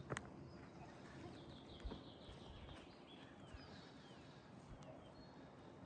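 Faint outdoor birdsong: a quick run of falling chirps about two seconds in, then a few short gliding whistles, with a couple of faint knocks.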